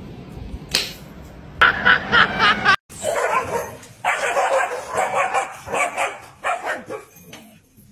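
Dogs barking and yipping in quick repeated bursts: a short run about a second and a half in, a sudden break, then a longer run of barks that fades out near the end.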